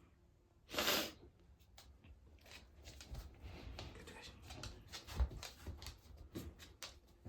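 A dog's short snort or sniff close to the microphone about a second in, followed by faint rustling and scattered small clicks.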